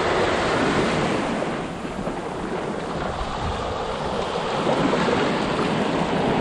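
Ocean surf washing onto the beach as a steady rush, with wind on the microphone.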